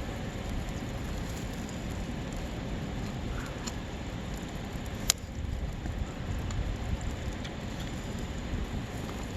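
Outdoor campfire crackling over a steady hiss, with a single sharp pop about five seconds in.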